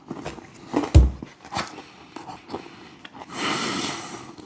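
Handling noises from a takeaway food box: scattered clicks and a heavy thump about a second in, then a breathy rush of noise near the end.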